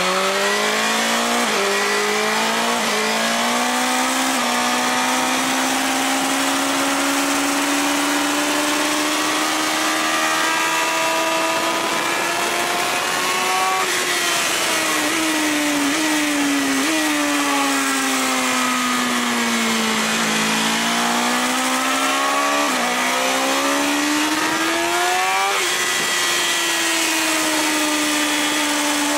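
BMW S1000RR inline-four superbike engine heard onboard at track speed, with wind rushing over the microphone. It revs up through quick upshifts in the first few seconds, then pulls for a long stretch with slowly rising revs. About halfway through, the revs drop under braking, with a few stepped downshifts. Then it accelerates through another upshift and eases off near the end.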